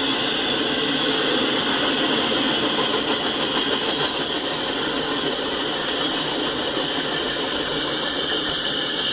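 Freight train's TTX intermodal well cars rolling past: a steady noise of steel wheels on rail.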